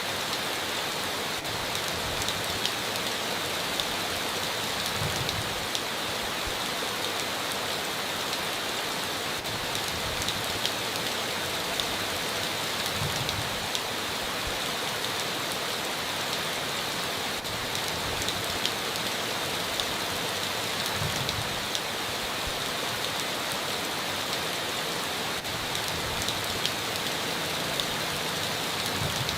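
Heavy rain falling steadily on a tin roof: a dense, even hiss with scattered sharp drop ticks.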